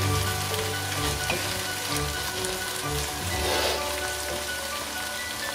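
Chopped onions and tomatoes sizzling in hot oil in a pan as they are stirred with a spoon, over background music.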